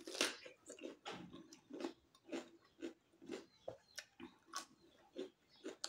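A person biting into a piece of raw cucumber, with a crisp crunch at the start, then chewing it with short crunches about twice a second.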